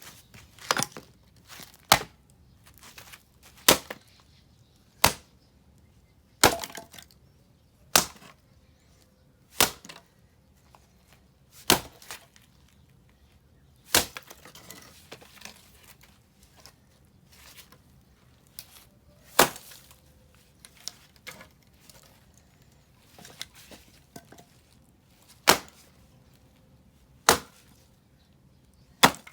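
Axe blows splitting firewood: a string of sharp wooden cracks, one every one and a half to two seconds, with a pause of several seconds midway.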